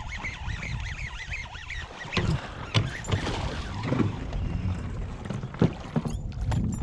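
Wind rumbling on the microphone aboard a fishing kayak while a hooked bass is fought, with several sharp knocks and splashes at the boat, the loudest about two and three seconds in and again near five and a half seconds.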